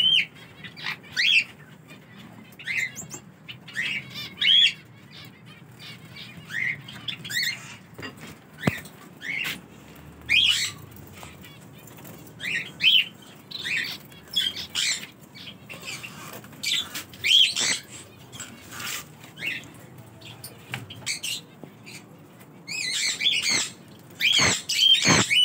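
Small caged aviary birds chirping: short sharp calls about once a second, with a burst of many overlapping calls near the end.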